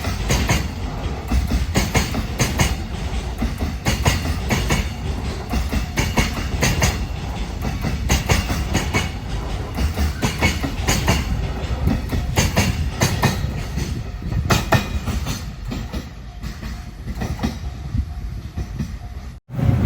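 Freight train rolling past on rails, its wheels clattering over the rail joints in a fast, uneven run of clicks over a steady low rumble. The sound cuts off abruptly near the end.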